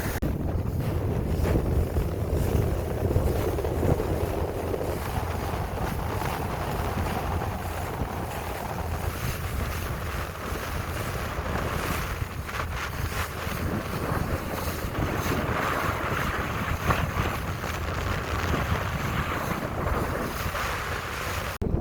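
Wind buffeting the microphone aboard a moving cruise boat: a steady, gusty rush over a low rumble.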